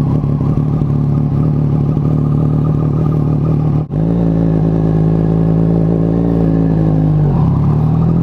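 Yamaha MT-09's three-cylinder engine idling steadily through a loud aftermarket exhaust, just after a cold start. The idle pitch dips briefly and recovers near the end.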